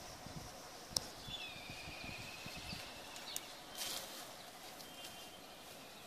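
Quiet outdoor background with a bird calling: a thin, wavering whistle of about two seconds starting about a second and a half in, with a few fainter short calls after it. A couple of sharp light clicks sound about a second in and again a little past three seconds.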